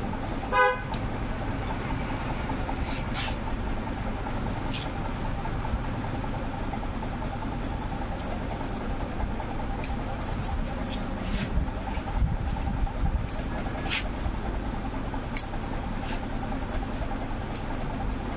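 Steady street traffic rumble with a short vehicle horn toot just after the start. Scattered sharp clicks come through over it, a dozen or so, most in the second half.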